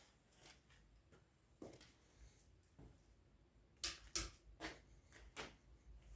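Faint scattered clicks and knocks, with a quick run of four sharper ones from about four seconds in.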